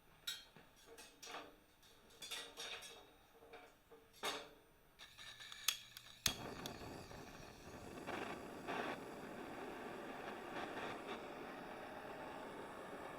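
A few light, scattered clicks and knocks, then, about six seconds in, a steady hiss starts abruptly and holds.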